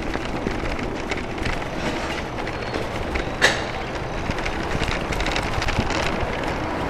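Ariel Rider Rideal e-bike rattling and jolting steadily as it rides over a rough brick-paved street, with a sharp clank about three and a half seconds in.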